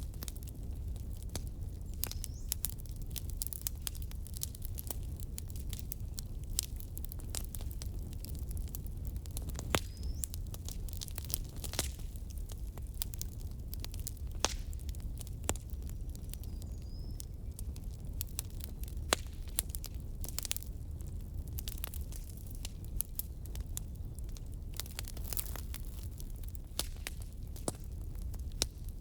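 Firewood burning, crackling and popping irregularly over a steady low rumble of the flames.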